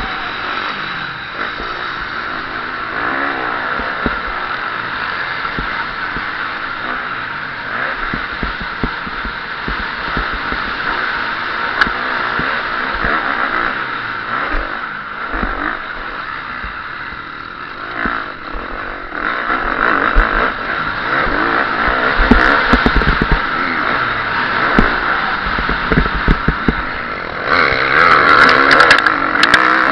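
KTM SX-F 350 motocross bike's single-cylinder four-stroke engine revving up and down under race throttle, with knocks and rattles as the bike runs over rough ground. It gets louder near the end.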